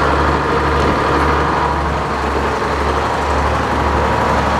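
Sawmill engines running steadily: a low engine drone with a steady whine above it.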